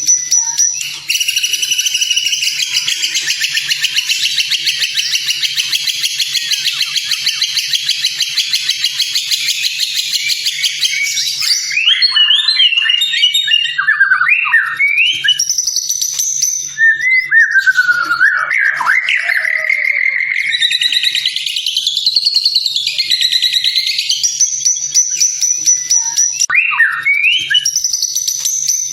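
White-rumped shama song on a training recording: a long, fast, buzzing trill for about the first eleven seconds, then a run of varied whistled phrases that glide up and down in pitch.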